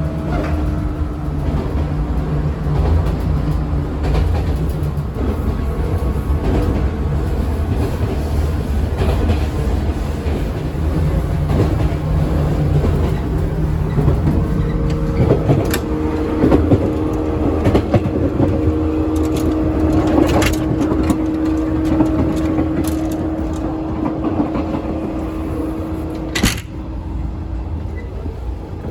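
JR West 115 series electric train running, heard on board: a steady low rumble of wheels on rail with a motor hum. About halfway through, a higher hum takes over from a lower one. Sharp clacks of wheels over rail joints come through the middle, with one loud clank near the end.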